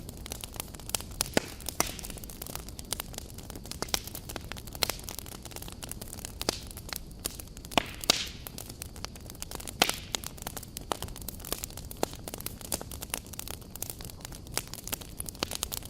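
Wood campfire burning, crackling with a steady stream of irregular sharp pops and snaps over a low rushing hiss, with a few louder pops about eight and ten seconds in.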